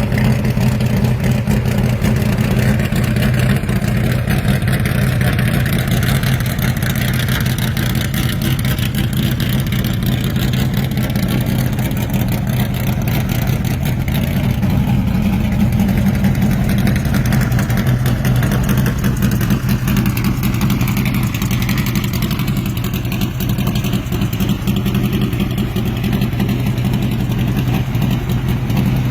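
Classic muscle-car or gasser engine running loud and steady near idle, with only slight changes in pitch.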